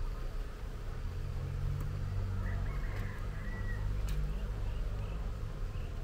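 A steady low rumble with a few faint bird chirps around the middle and a few soft clicks.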